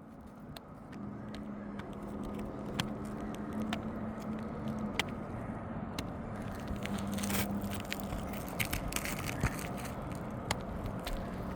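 Crackling and scraping of old three-tab asphalt shingles being pried up and bent with hand tools, with scattered sharp ticks and a thicker burst of crackle partway through. A steady low hum runs underneath.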